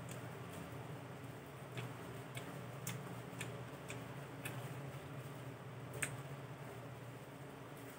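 Eating sounds: irregular sharp wet clicks of chewing and lip-smacking, the loudest about six seconds in, over a low steady hum.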